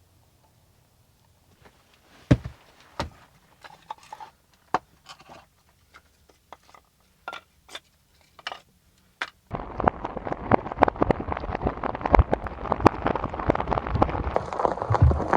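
Scattered knocks and clicks of things being handled, with a few sharper thumps, then from about two-thirds of the way in a sudden switch to heavy rain pattering densely.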